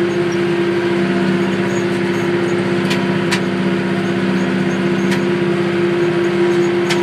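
McCormick GX50 utility tractor's Yanmar diesel engine running at a steady working speed while pulling a brush hog (rotary cutter), with a few brief sharp clicks.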